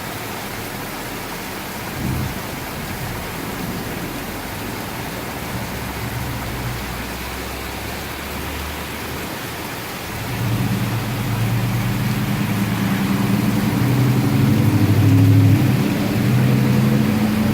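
Heavy rain pouring steadily. About ten seconds in, a deep rumble of thunder builds and rolls on, growing louder toward the end.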